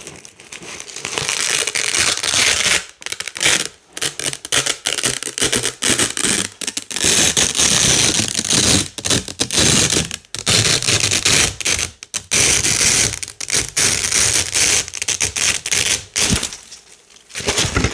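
Velcro hook-and-loop strips being pulled apart over and over: crisp ripping tears, one after another with short breaks between them.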